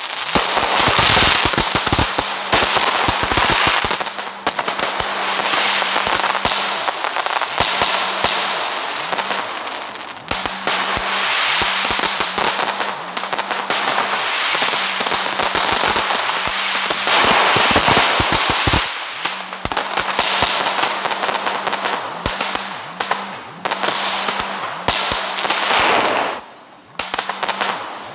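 Fireworks going off: a dense run of crackles and pops over a continuous hiss, with a short lull near the end.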